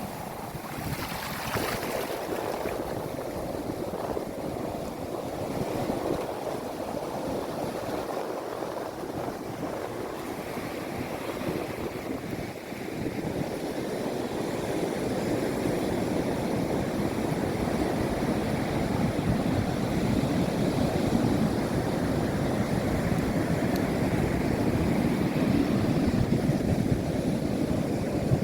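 Sea waves breaking and washing ashore, a continuous rushing surf that grows louder about halfway through.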